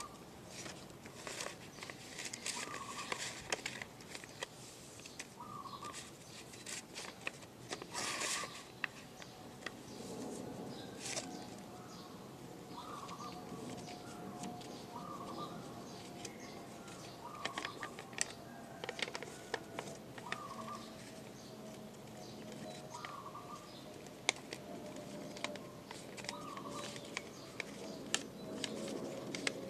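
A sheet of paper being folded and creased by hand, rustling and crackling at irregular moments. A bird gives a short call about every two seconds throughout.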